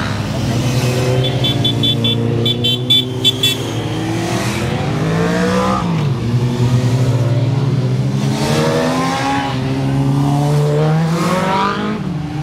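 Motor vehicle engine running, its revs rising and falling several times. A short pulsing high-pitched tone is heard about one to three seconds in.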